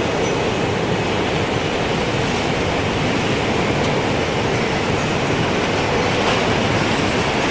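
Strong wind blowing in steady gusts: a loud, dense rushing noise that swells slightly near the end, with no clear chime notes standing out.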